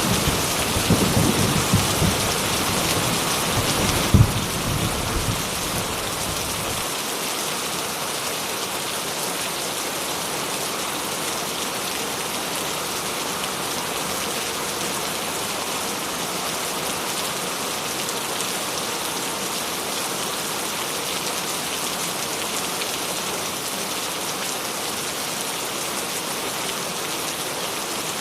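Steady rain falling, with a low rumble of thunder and one sharp crack about four seconds in; the thunder dies away after about seven seconds and the rain continues evenly.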